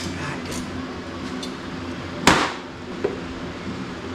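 One sharp knock about two seconds in, with a short ring after it, and a lighter tap just under a second later, over a steady low hum.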